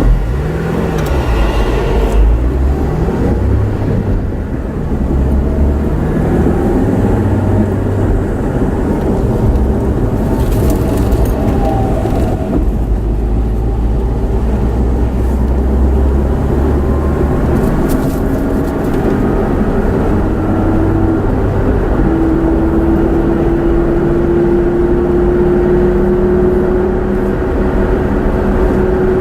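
A road vehicle driving: a steady, loud low rumble, with an engine or motor tone slowly rising in pitch over the last several seconds as it speeds up.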